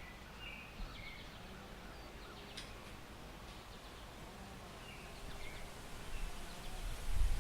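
Outdoor ambience: a steady hiss of wind with a few short bird chirps. Low wind rumble on the microphone builds near the end.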